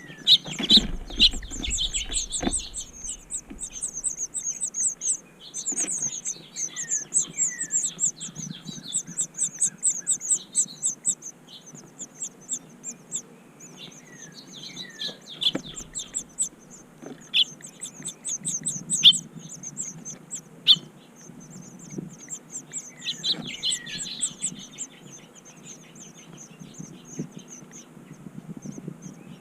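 Songbirds chirping, with rapid high trills and short downward-sliding calls overlapping throughout. A few sharp knocks sound now and then, with a brief low rumble near the start.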